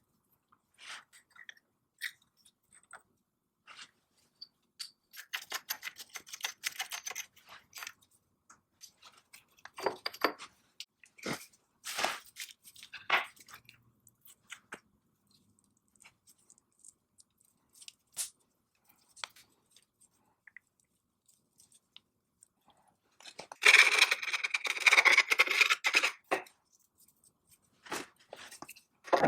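Hand work on metal parts: scattered clicks and knocks with short bouts of scraping. The loudest and longest scraping starts about three-quarters of the way in and lasts a couple of seconds.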